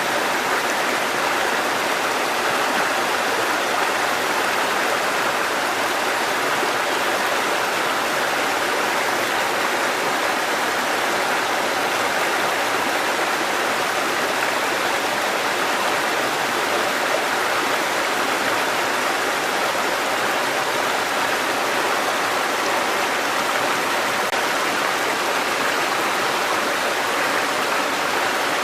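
Water cascading, a steady, even rush with no breaks.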